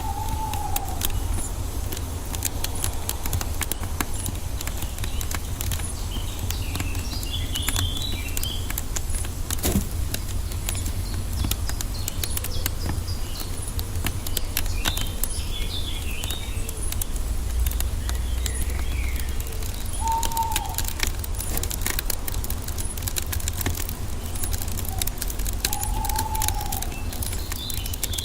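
Wood fire crackling steadily over a low rumble, with birds calling now and then: short high chirps and a few arched, mid-pitched calls.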